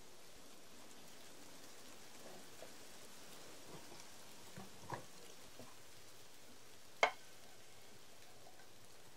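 Food sizzling in a pan on a camp stove: a steady faint hiss with a few crackles, the loudest a single sharp crack about seven seconds in.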